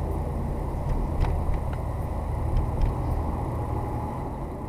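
Steady road and engine noise of a car driving, with a low rumble and a few faint clicks.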